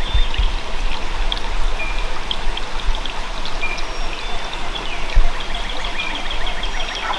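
Morning outdoor ambience: many small birds chirping and trilling over a steady rush of running water, with occasional low bumps of wind on the microphone.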